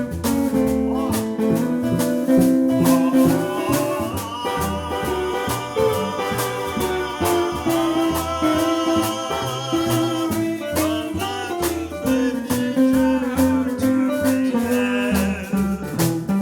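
Live swing-jazz band playing an instrumental passage: a bass line moving steadily under a steady beat, with a lead line carrying the tune in held, wavering notes.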